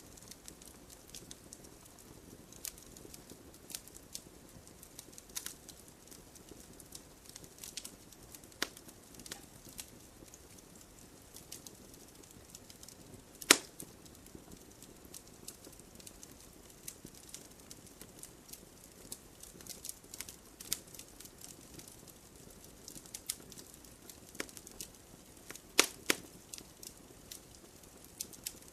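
Wood campfire crackling, with irregular sharp pops and snaps over a soft steady rush of burning. The loudest pop comes about halfway through, and a quick pair of pops follows near the end.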